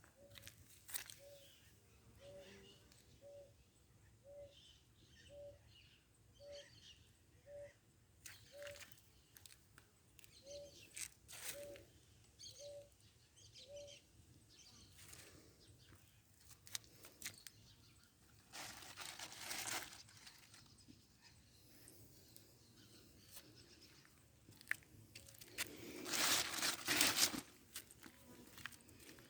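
Birds calling outdoors. A short, low single note repeats about once a second for the first half, with scattered higher chirps. Two louder bursts of noise come later, the second, near the end, the loudest.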